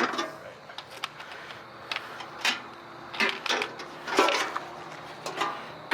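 Scattered clicks, knocks and light clatter, irregularly spaced, as hard objects are handled and set down, with faint voices in the background.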